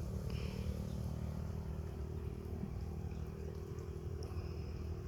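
Steady low rumble of a running motor, with a constant hum.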